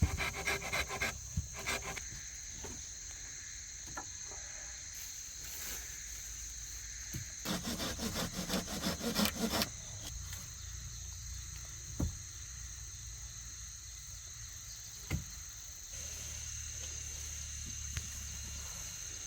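Quick back-and-forth strokes of a hand tool on wood, in a short burst at the start and a longer one about halfway through, with a few single knocks between. A steady high insect drone runs behind.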